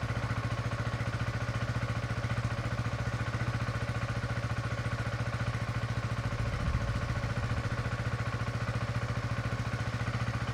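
Honda CB125R's single-cylinder four-stroke engine idling steadily through its stock exhaust, with even firing pulses and a brief small swell about two-thirds of the way through.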